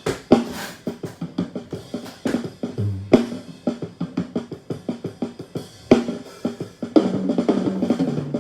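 Multitrack recording of a live drum kit playing back through the snare-top microphone channel, snare hits prominent among kick drum and cymbals. The channel is being soloed and EQ'd for the snare.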